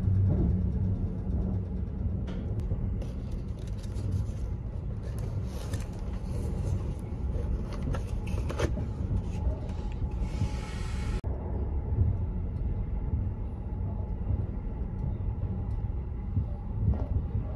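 Steady low rumble of the Kintetsu Hinotori limited express train running, heard inside the passenger car. Over the first part come scattered clicks and rustling as the boxed bento is handled and unwrapped, and these stop suddenly about 11 seconds in.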